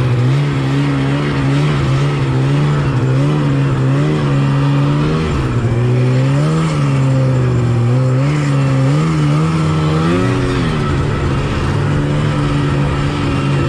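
1986 Yamaha Phazer 480 snowmobile's two-stroke twin engine running under way, its pitch rising and falling several times about halfway through as the throttle is worked, then holding steady again.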